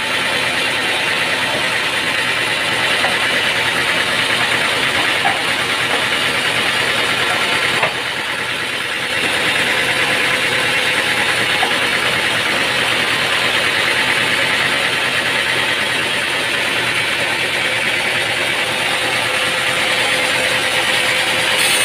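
Engine-driven sawmill machinery running steadily, a continuous mechanical din with a faint steady hum, briefly a little quieter about eight seconds in.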